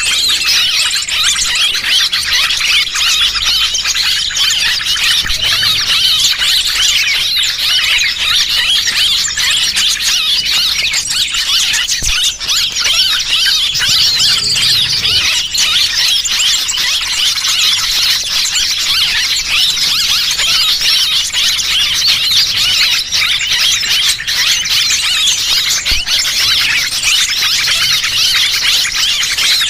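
Loud, dense chattering of many small birds, quick high chirps piling over one another without a break: a bird-lure call recording for drawing small birds in.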